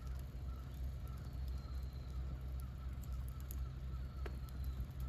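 Wood campfire burning with scattered crackles and one sharper pop a little after four seconds, over a steady low rumble. A faint rapid series of short high chirps, about three a second, runs in the background.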